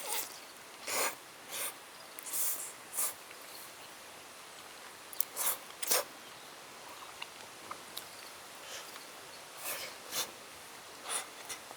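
About a dozen short, irregular rustling scrapes, each a fraction of a second long, over a steady background hiss.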